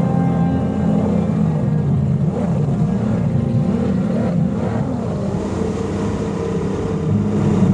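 High-performance outboard engines of a racing boat running under way. The engine pitch wavers up and down in the middle, then holds steady.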